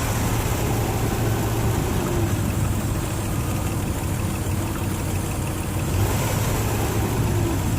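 A 2002 Nissan Xterra's 3.3-litre V6 idling steadily, with its ignition timing on spec after a new timing belt.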